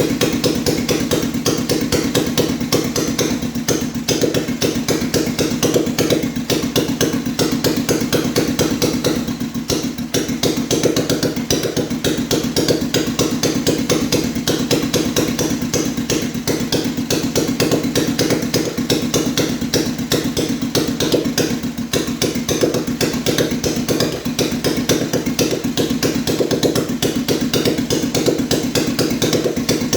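BMW R35's single-cylinder four-stroke engine running steadily on a test run, its exhaust beats coming as a fast, even pulse.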